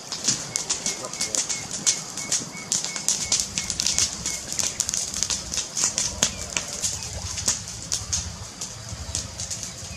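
Fireplace fire crackling: dense, irregular pops and snaps over a low rumble.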